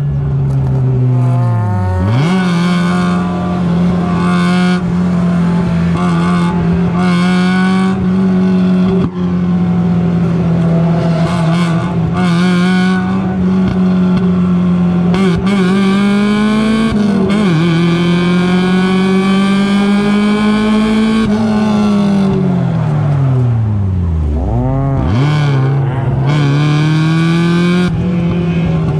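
Mazda Miata race car's four-cylinder engine heard from inside the car under hard throttle in a race. It holds a high, steady drone with gear changes about two and about seventeen seconds in. From about twenty-one seconds the pitch falls steadily as it slows for a corner, with downshift blips near twenty-five seconds before it pulls hard again.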